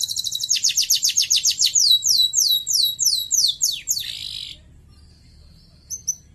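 Domestic canary singing: a fast trill of rapidly repeated high notes, then a run of slower downward-sweeping whistles, ending in a short buzzy note about four and a half seconds in. A couple of brief chirps follow near the end.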